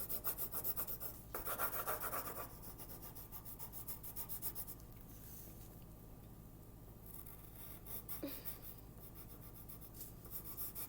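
Drawing strokes on paper: quick, fast-repeating scribbling strokes in spells, the busiest in the first couple of seconds and again near the end, with quieter stretches between.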